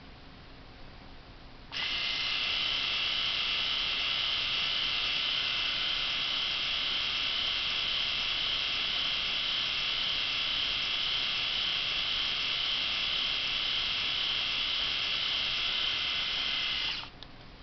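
Philips HQ7390 rotary electric shaver running unloaded: a steady, high-pitched motor buzz switched on about two seconds in, held for about fifteen seconds, then switched off near the end.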